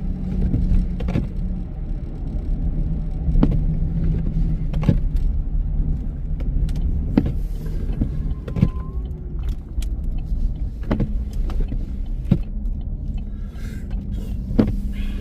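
Car driving on a snowy road: a steady low road and engine rumble with a hum, and sharp clicks or knocks every second or two.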